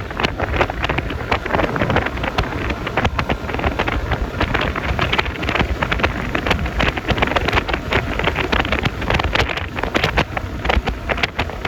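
Wind buffeting the phone's microphone over the road and engine noise of a Yamaha Lexi LX 155 scooter riding along: a steady rushing noise broken by rapid crackles.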